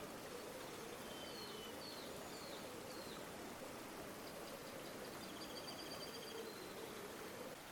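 Steady rush of a flowing river, with faint high bird chirps over it: a few short calls in the first few seconds, then a quick trill in the second half.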